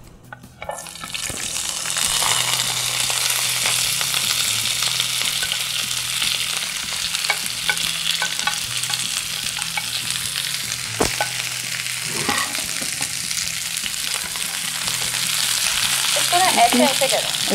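Chopped vegetables hit shallow hot oil in a pan and sizzle steadily as they are stir-fried with a spatula. The sizzle starts about a second in, and the spatula clicks against the pan a few times.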